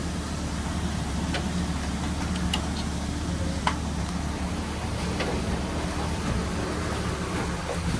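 Steady low hum of food-truck kitchen machinery, with a few sharp clicks and knocks of utensils and equipment; the loudest click comes about three and a half seconds in.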